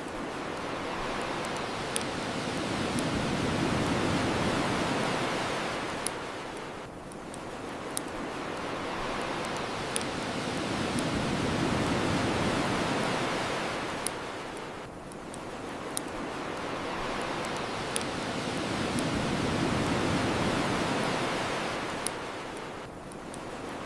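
Ocean surf washing onto the shore in three slow swells, each rising and falling over about eight seconds. Sharp pops from a crackling bonfire come about every two seconds.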